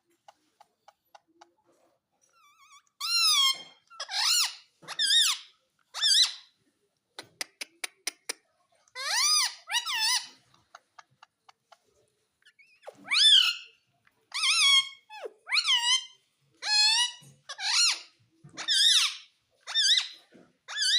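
Parrot giving a string of about a dozen short, high-pitched squeaky calls, some in quick pairs, with faint ticking clicks in the pauses between them.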